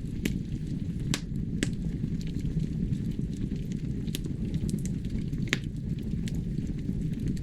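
Wood fire burning in a fireplace: a steady low rush of flames with scattered sharp crackles and pops, the loudest about a second in and again past the middle.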